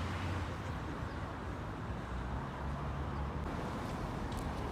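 Steady outdoor background noise: a low rumble under an even hiss, with a few faint clicks near the end.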